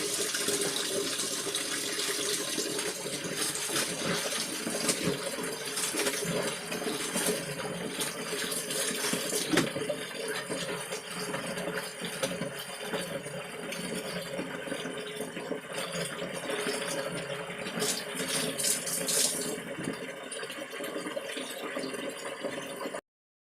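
Water running from a tap and splashing as laundry is rinsed by hand in a basin, with scattered knocks and sloshes. The sound cuts off suddenly near the end.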